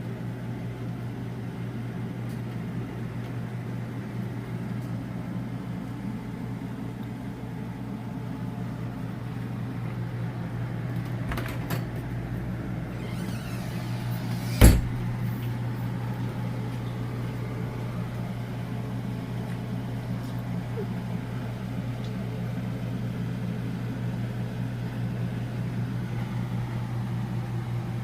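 A steady low mechanical hum, with one sharp knock about halfway through and a few fainter clicks shortly before it.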